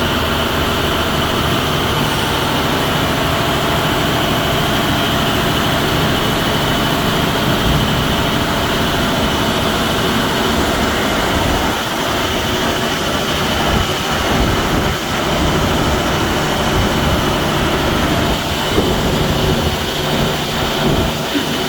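2010 International 4400 shredder truck running: a steady, loud mechanical drone with a continuous high whine over it.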